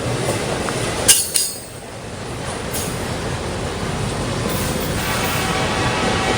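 Norfolk Southern train's cars rolling along the track, a steady rumble that gradually grows louder, with a sharp clink about a second in.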